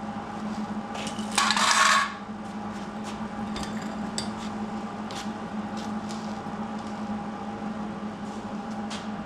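Steel parts being handled on a metal work table: a short harsh scrape about a second and a half in, then scattered light metallic clinks and taps, over a steady hum.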